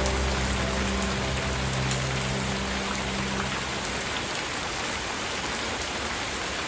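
Steady rain hiss with a few sharper drops, under soft held low music notes that fade out about halfway through.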